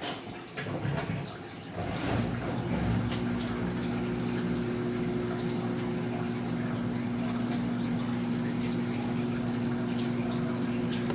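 Washing machine drain pump humming steadily as water flows out, coming in about two seconds in after a few short knocks. The pitch holds level, so the drum is not yet spinning up.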